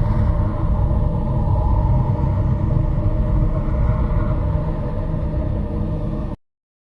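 A loud, steady low rumble that cuts off suddenly near the end, leaving dead silence.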